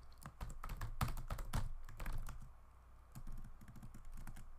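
Typing on a computer keyboard: quick, irregular keystrokes, with a short pause about halfway through.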